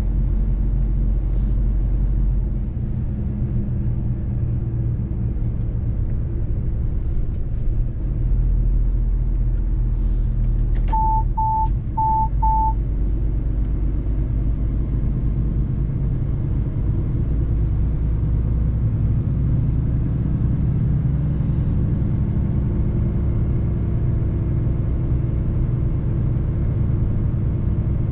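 Mercedes-Benz truck driving, its diesel engine and road noise making a steady low rumble. About eleven seconds in, four short beeps at the same pitch sound in quick succession.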